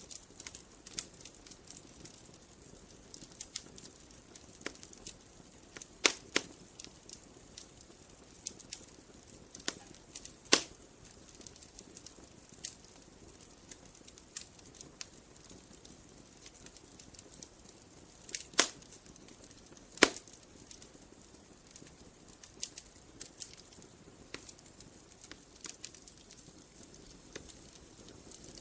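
Wood fire crackling: a steady scatter of small sharp snaps over a faint hiss, with four louder pops as the burning wood splits.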